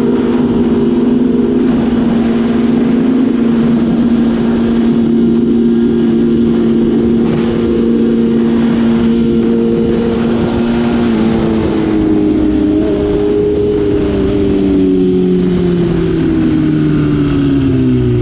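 Sport motorcycle engine running at steady revs while cruising, its pitch holding for about eleven seconds, then shifting and falling away near the end as it slows.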